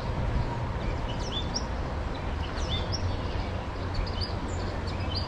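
Birds chirping in short, high notes scattered through, over a steady low background rumble.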